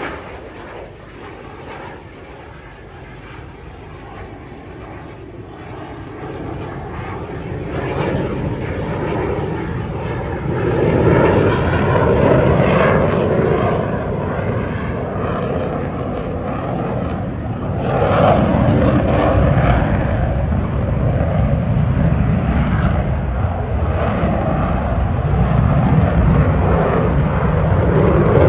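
Finnish F/A-18 Hornet fighter's jet engines during a display pass: faint at first, swelling from about six seconds in and loudest about eleven seconds in and again from about eighteen seconds on, as the jet flies close by.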